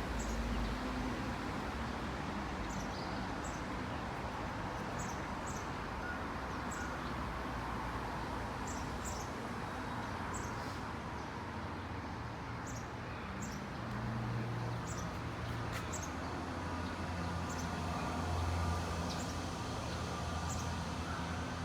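Outdoor ambience: a steady background hiss and low hum, with short high-pitched chirps repeating about once a second.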